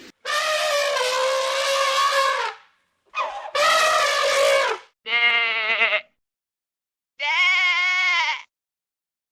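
A run of four long bleating animal calls, each wavering in pitch and lasting one to two seconds, with abrupt silent breaks between them.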